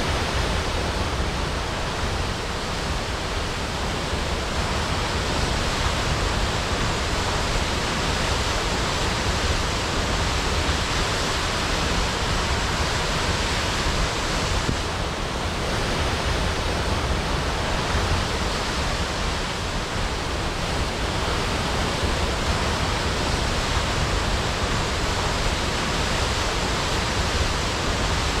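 Waterfall crashing: a steady, dense rush of falling water with no breaks.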